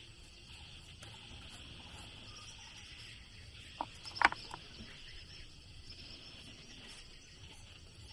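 Steady high insect chirring, like a cricket chorus, with a few sharp knocks about four seconds in.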